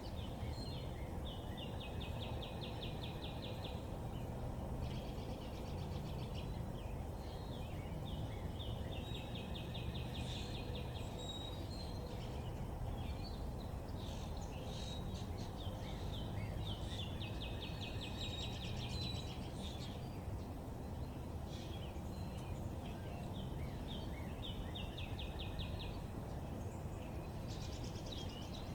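A songbird singing a fast, even trill, repeated every few seconds, with short chirps in between, over a steady low background rumble.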